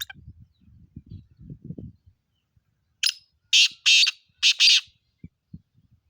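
Black francolin (black partridge) calling: one loud phrase of five rasping notes in quick succession, starting about three seconds in and lasting under two seconds. Faint low rumbling comes before it.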